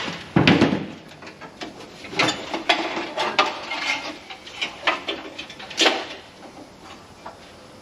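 Irregular metal clunks, knocks and rattles from the old heater box and its control parts being worked loose and pulled off a 1962 Chevy C10 truck cab's firewall. The loudest knocks come at the very start, about half a second in, and again about six seconds in.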